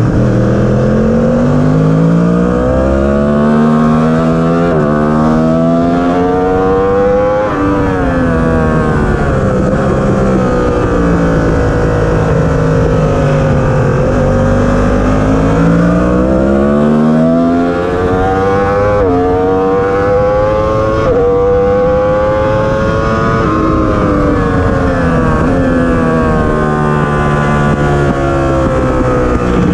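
Yamaha R1 inline-four sportbike engine at full throttle on track. The pitch climbs steeply and drops suddenly at each upshift, then falls away as the bike slows for corners, several times over, with wind rush over the microphone beneath it.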